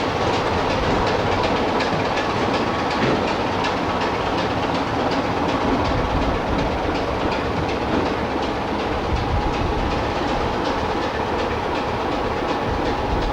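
Train running on jointed track, its wheels giving a steady, rapid clickety-clack over the rail joints under a continuous rumble.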